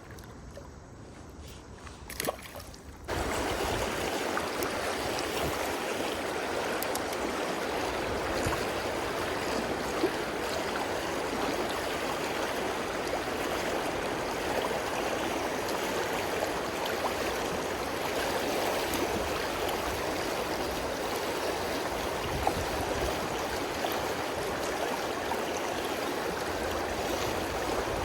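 Flowing river water, a steady rushing hiss of current, which comes in abruptly about three seconds in after a quieter stretch with a single small knock.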